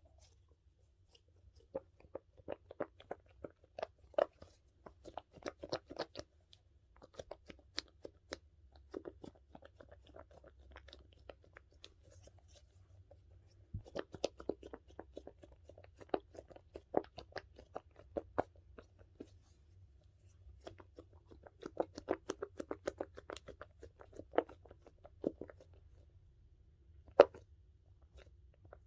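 Dumpling-shaped squishy toy being squeezed and kneaded close to the microphone, giving crackly, crunchy squishing in bursts of a few seconds with short pauses between them.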